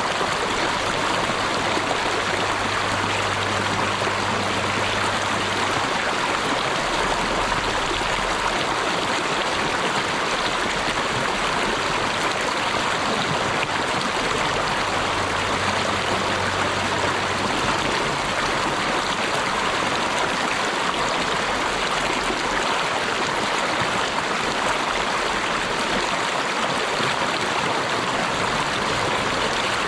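Flowing stream water rushing steadily, an even, unbroken wash of sound with no pauses.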